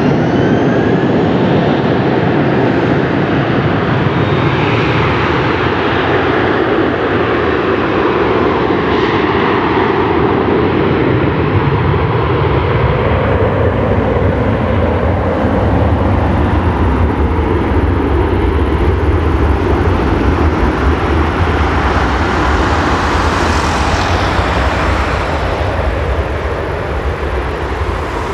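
Airbus A321 jet engines running at high thrust as the airliner starts its takeoff, a loud steady jet noise with tones sliding in pitch, easing off slightly near the end.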